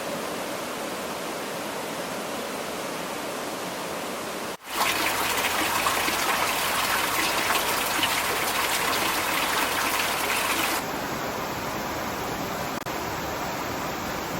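Steady rushing of running water, in three edited stretches. It cuts sharply louder and grainier about four and a half seconds in, then drops back down about eleven seconds in.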